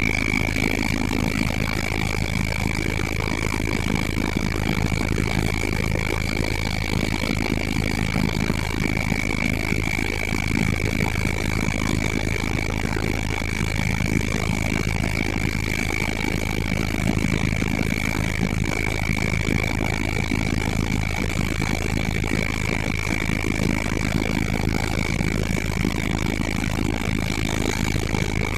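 Steady helicopter cabin noise in flight: a constant low rotor and engine drone with a steady high turbine whine over it.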